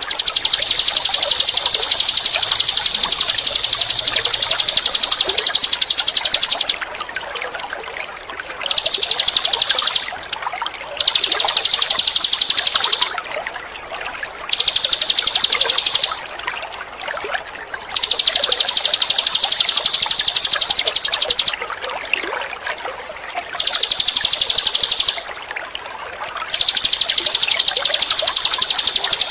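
Ninin eurih bird singing a fast, high buzzing trill, sustained for several seconds at a time in about seven long phrases with short pauses between them, over the steady trickle of running water.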